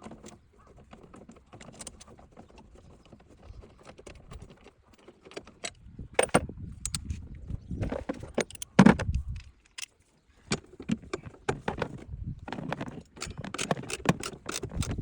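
Metallic clinks, clicks and rattles of tools and small parts being handled during disassembly, with one heavier knock about nine seconds in.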